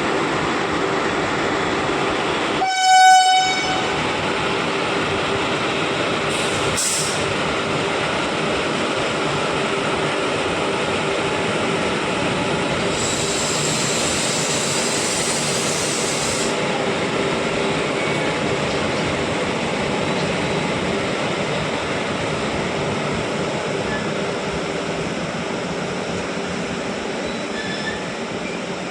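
Goods train hauled by WAG-7 electric locomotives rolling slowly through the station, with a short, loud horn blast about three seconds in. A high hiss lasts a few seconds midway.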